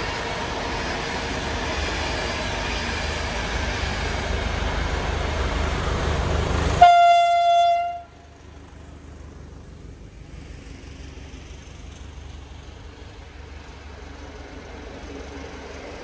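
Electric-hauled passenger train passing close with a loud, steady rolling noise that cuts off abruptly about halfway through. A single locomotive horn blast of about a second sounds there. After it comes the quieter, steady passing of the diesel-hauled train, SU42 locomotive with double-deck coaches.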